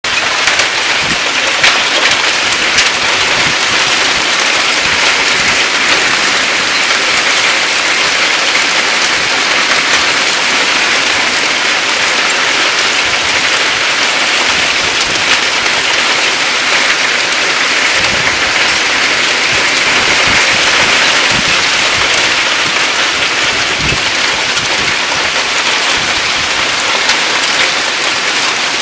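Heavy rain and hail falling steadily, a dense hiss with scattered sharp taps all through it.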